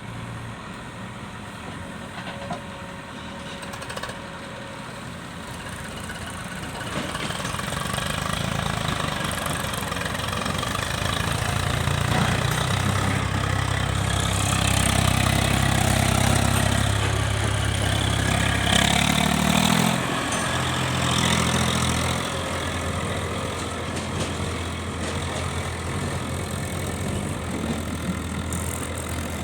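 Caterpillar 424B backhoe loader's diesel engine working under load: it runs steadily, revs up and grows louder from about seven seconds in, then eases back after about twenty seconds.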